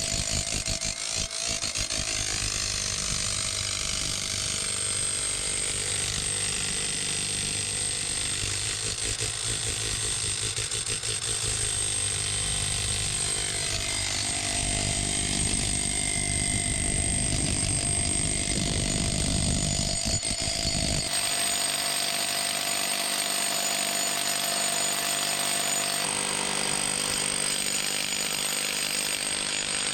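Hammer drill running steadily, boring into a concrete wall. About two-thirds of the way through, the low, heavy part of the sound drops away while the higher whine carries on.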